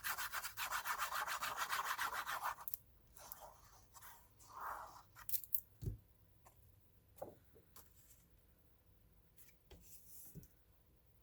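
Quick back-and-forth rubbing on paper, many strokes a second, stopping after about two and a half seconds. Then quiet paper handling with a few light ticks and taps.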